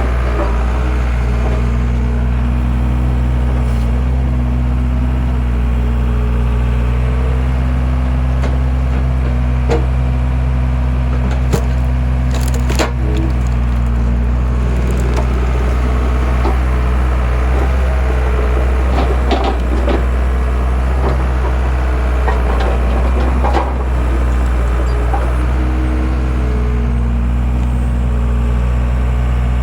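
Skid steer engine running steadily while its hydraulic log splitter works, with wood cracking and splitting apart several times, mostly around the middle.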